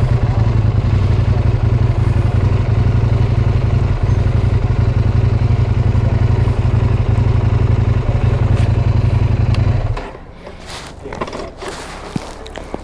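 Motorcycle engine running steadily, then switched off about ten seconds in, leaving a few small clicks and knocks.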